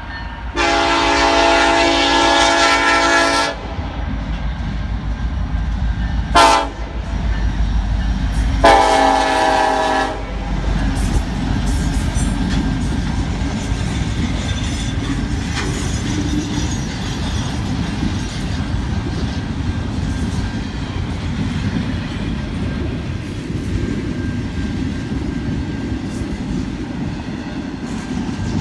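Norfolk Southern diesel locomotive horn sounding three blasts for the crossing: a long blast, a short one, then another long one. Then the double-stack intermodal train runs steadily over the crossing, its wheels clacking on the rail joints.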